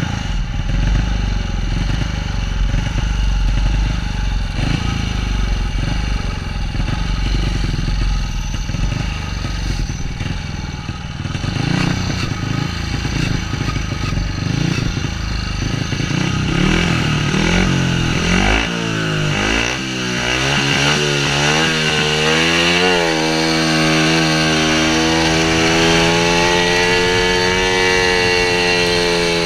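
A 500cc single-cylinder speedway bike engine running hard on the track, revs rising and falling as the throttle is worked through the bends. About two-thirds of the way through the note climbs and settles into a steady high-revving pitch.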